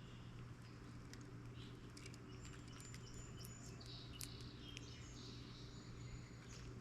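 Faint chirps and short calls from small birds, mixed with a few light clicks, over a steady low hum.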